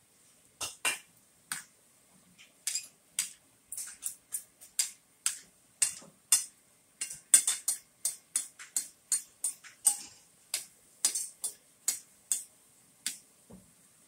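Close-up eating sounds: a person chewing a mouthful with sharp, wet mouth clicks and lip smacks, about two to three a second.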